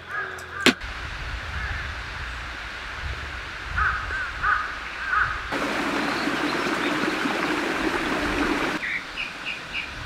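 Forest ambience with birds calling: a few groups of short repeated calls in the first half and quicker, higher chirps near the end, over a low steady hiss. In the middle a steadier rushing noise takes over for about three seconds.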